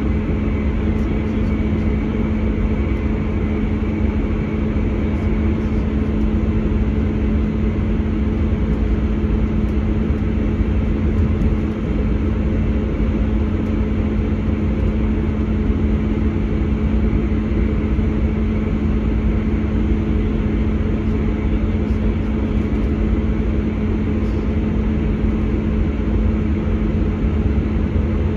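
Class 159 Sprinter diesel multiple unit running at speed, heard from inside the passenger saloon: a steady drone from its underfloor Cummins diesel engine with a constant hum, over a continuous rumble of the wheels on the track.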